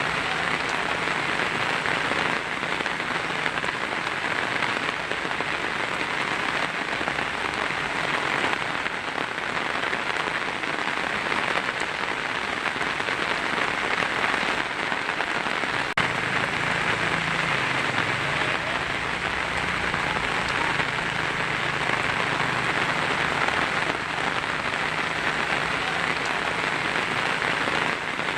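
Heavy rain falling steadily on a tin roof, an even dense patter, with a single sharp click about sixteen seconds in.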